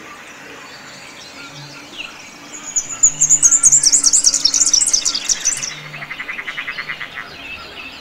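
Wetland birds calling: a background of scattered chirps, with a loud, fast, high-pitched song starting about three seconds in and lasting some three seconds, then a rapid trill of lower notes.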